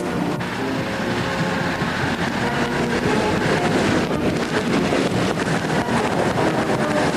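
Ural truck's engine running steadily as the truck drives.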